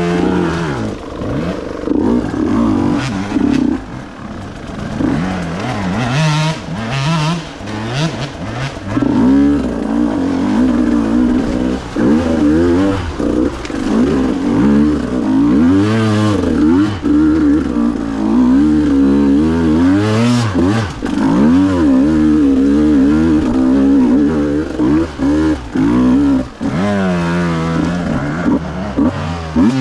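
Two-stroke enduro motorcycle engine being ridden off-road. The revs rise and fall constantly as the throttle is worked, with short dips where it is backed off.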